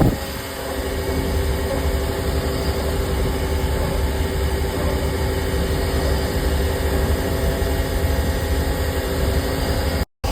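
Vehicle engine idling steadily, a constant low hum under an even hiss of storm noise. The sound cuts out briefly near the end.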